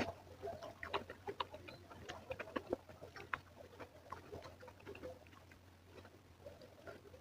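Close-miked chewing and mouth sounds of a person eating: a stream of small irregular wet clicks and smacks, thinning out towards the end.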